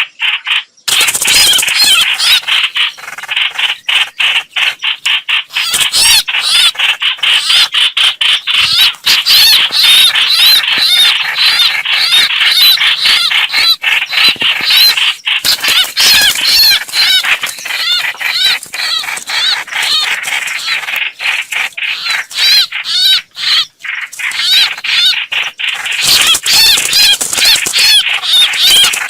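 Rapid, continuous chattering calls of the hoạch hoạch bird, notes repeated many times a second, played as a trapping lure call.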